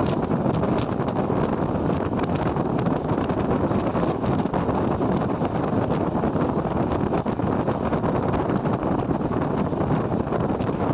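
A train rolling past close by: a steady rumble of wheels on rails with faint irregular clicks, and wind buffeting the microphone.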